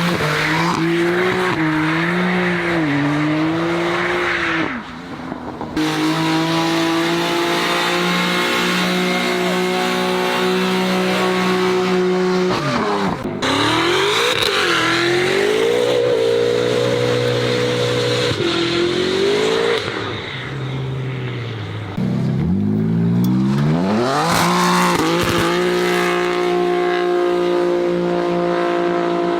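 BMW car engines and exhausts revving and accelerating across a string of cut-together clips, the pitch climbing, holding and dropping, with sudden changes where one clip cuts to the next and a long rising rev about three-quarters of the way through.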